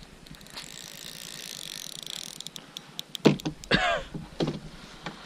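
Spinning reel clicking in a quick run of small ticks, consistent with the drag being adjusted on a reel whose drag had not been set. It is followed by a couple of brief grunt-like voice sounds from the angler.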